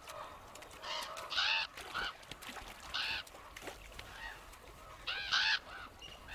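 Birds calling: short, pitched calls in three groups, about a second in, around three seconds, and about five seconds in.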